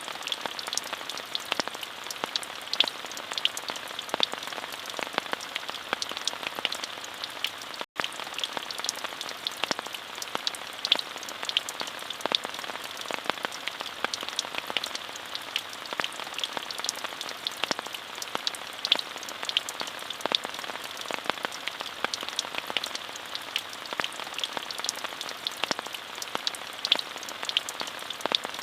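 Steady, gentle rain falling on surfaces, an even hiss dotted with many individual drop taps. The sound cuts out for a split second about eight seconds in.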